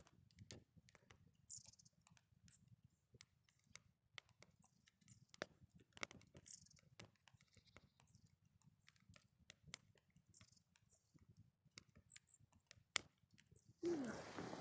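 Small wood fire in a rocket stove crackling faintly, with sparse, irregular sharp pops. Near the end there is a louder rustling noise.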